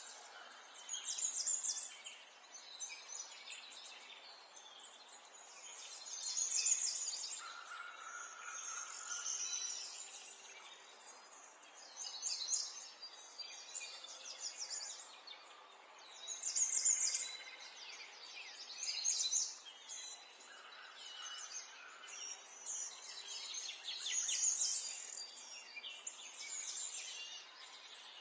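Several songbirds chirping and trilling in short phrases every few seconds, over a faint steady background hiss.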